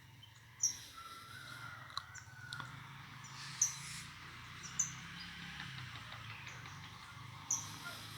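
Birds calling outdoors: a handful of short, sharp, high chirps a second or more apart, with a fainter whistled note early on, over a low steady hum.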